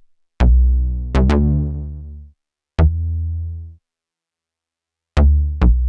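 Eurorack synth bass notes through the Swenigiser Proto VCF/A filter and VCA module, with the input driven hot for a gritty filter tone. Low plucked notes with sharp clicky attacks each die away over a second or so. After a pause of about a second and a half, a quick cluster of notes comes near the end.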